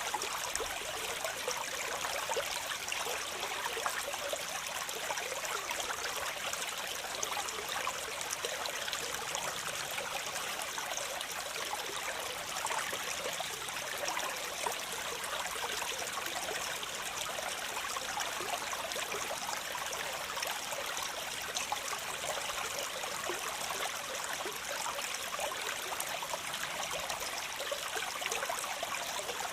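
Waterfall water splashing and rushing in a steady, unbroken wash, bright and hissy with little deep rumble.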